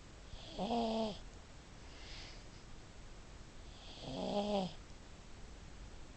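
Pug snoring: two snores, each about half a second long and about three and a half seconds apart, each with a breathy hiss, and a faint breath between them.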